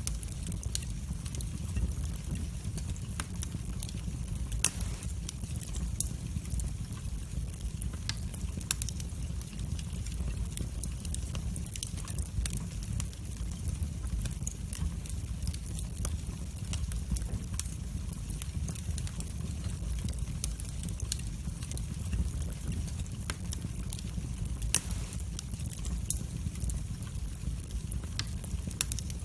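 Wood fire burning in a fireplace: a steady low rumble with scattered crackles and pops, two sharper pops about five seconds in and about five seconds before the end.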